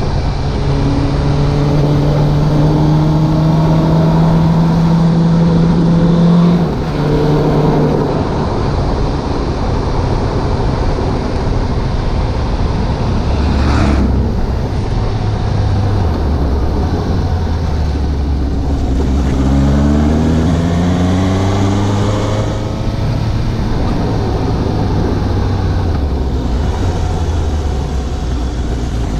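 Suzuki GSX750's inline-four engine heard from the rider's position on the move. It holds steady revs, then drops off about six seconds in and runs at low revs, with short rising pulls of the throttle around two-thirds of the way through and again right at the end. A rush of wind and road noise runs under it.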